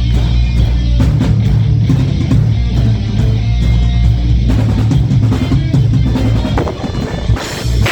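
Loud live rock band playing: guitars, bass and drum kit. About four and a half seconds in the heavy low bass thins out and the music changes texture.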